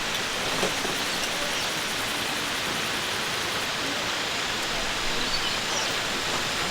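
Steady rushing noise, like running water, with no clear rhythm or pitch.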